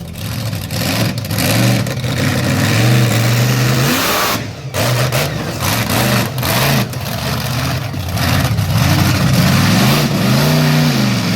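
Monster truck's big V8 engine revving up and down repeatedly, loud, with a short drop about four and a half seconds in.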